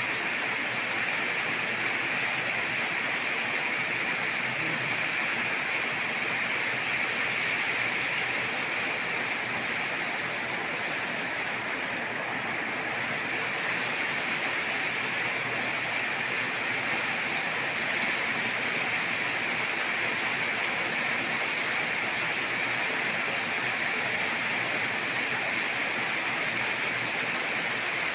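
Steady rain falling: a continuous even hiss with scattered sharper drop ticks.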